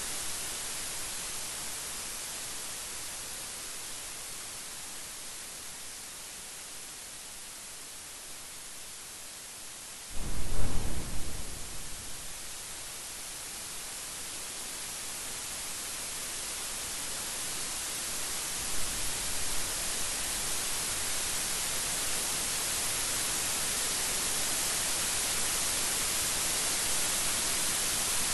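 Steady rain hiss, broken about a third of the way in by a sudden loud thunderclap that rumbles away over a couple of seconds. A fainter thunder rumble follows about two-thirds in, and the rain swells gradually louder toward the end.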